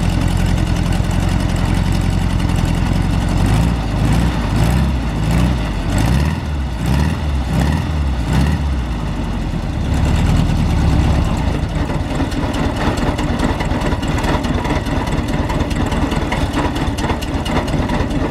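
Volkswagen Kombi's air-cooled flat-four engine running with its valves freshly adjusted, revved up and back down several times in the middle before settling to a steady run. This is a test of whether the adjustment cured its odd rumble, and the rumble seems improved.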